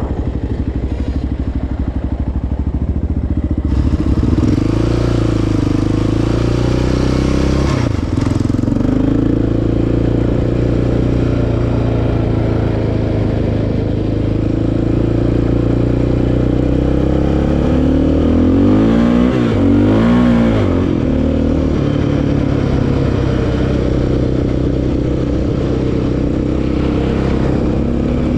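Single-cylinder four-stroke ATV engine running, its revs rising and falling with the throttle, with a quick run of revs going up and down about two-thirds of the way through.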